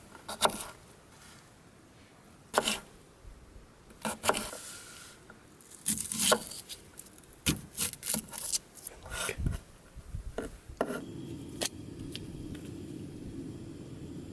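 Potatoes being chopped and handled on a cutting board: a run of separate sharp knocks and scrapes. About eleven seconds in, a steady low rushing sound sets in.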